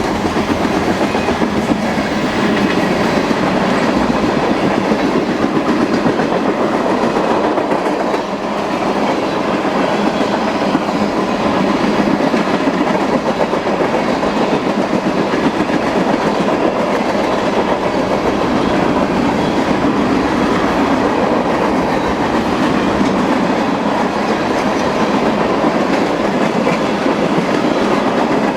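Freight train cars rolling steadily past, the continuous rumble and rattle of steel wheels on rail.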